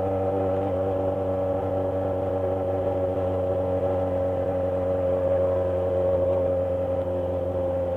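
Yamaha XJ motorcycle engine running at a steady cruising speed, its pitch holding almost constant with only slight waver.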